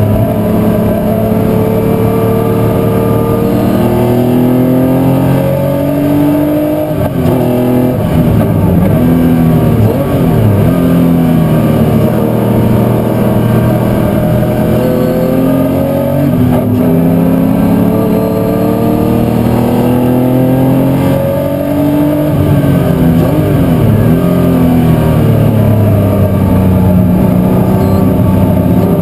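V8 muscle race car engine at full racing effort, its note climbing through the gears and falling sharply twice as it brakes and downshifts for corners.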